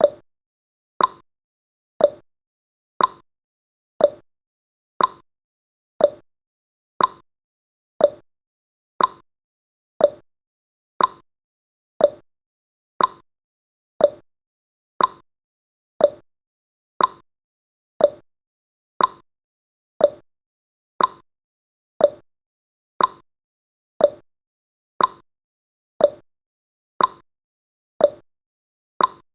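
Clock-ticking sound effect of a countdown timer: short, sharp ticks at a steady pace of about one a second.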